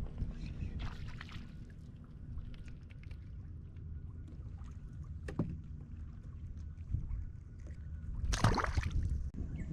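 Water sounds from a fishing kayak on a lake, with a steady low rumble of wind and water on the microphone. A sharp click comes about five and a half seconds in, and a louder brief rush of noise about a second before the end.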